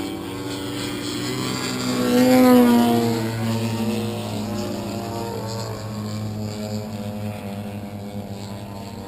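Large radio-controlled model airplane engine running as the plane flies past. It is loudest about two and a half seconds in, and its pitch drops as it goes by. Under it, a steady engine note carries on throughout.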